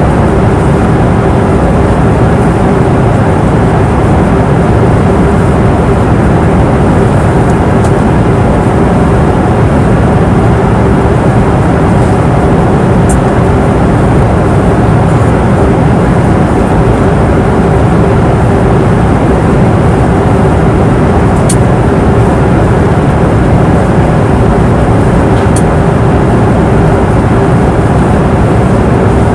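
Passenger airplane cabin noise in flight: a steady, even rush weighted to the low end, with a constant hum tone running through it. A few faint ticks sound now and then.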